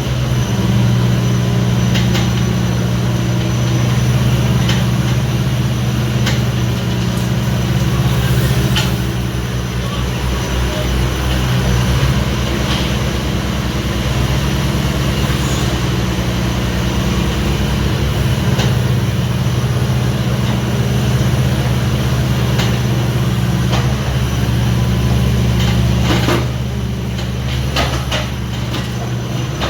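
Diesel engine of a Hitachi 26U mini excavator running steadily, with scattered clicks and knocks. It eases slightly a few seconds before the end.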